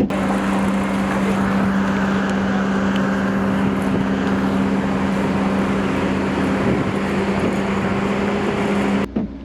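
Car engine running at steady revs, a constant hum under a rushing noise, cut in and cut off abruptly after about nine seconds.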